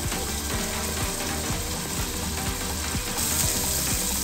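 Onion-tomato masala sizzling steadily in hot oil in a steel kadai while a metal spatula stirs it, the masala being bhuno-fried until the oil separates.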